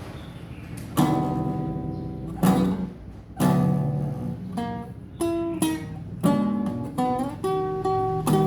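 Solo classical guitar: three ringing chords about a second apart open the piece, then quicker single plucked notes follow.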